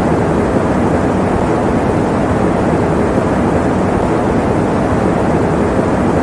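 Electric fan running steadily: an even, deep rush of air with no clicks, rhythm or change in level.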